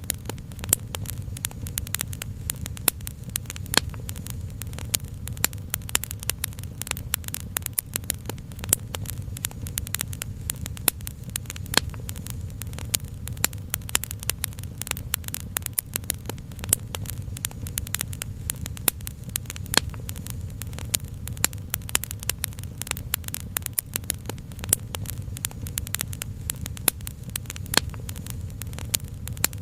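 Wood fire crackling with dense, irregular pops and snaps, some sharper and louder than the rest, over a steady low rumble.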